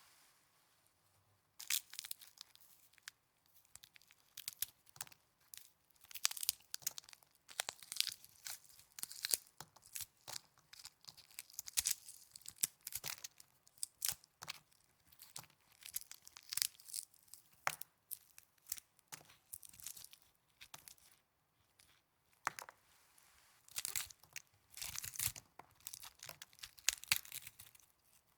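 Snow being squeezed and crunched close to the microphone in irregular crackly bursts, with short lulls about a second in and again about three-quarters of the way through.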